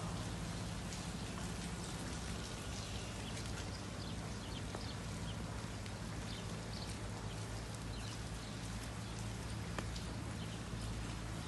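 Steady heavy rain, with many small drop ticks scattered through it. A low steady hum runs underneath.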